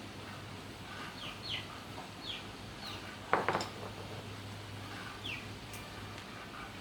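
A few short, high, falling bird chirps over a steady low hum, with one sharp metallic clink about halfway through.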